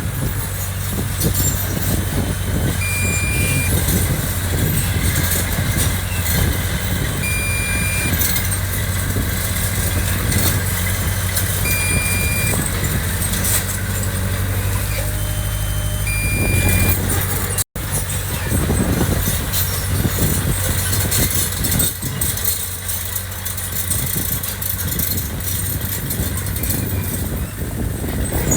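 Heavy construction machinery's diesel engine running steadily. A short high-pitched warning beep sounds about every four and a half seconds, then stops after a brief dropout about two-thirds of the way through, while the engine carries on.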